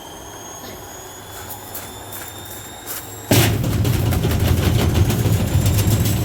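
Washing machine with a stone in its drum: a faint motor whine rising in pitch with a few knocks, then about three seconds in a sudden loud heavy rumble with rapid banging and rattling as the stone is thrown around the spinning drum.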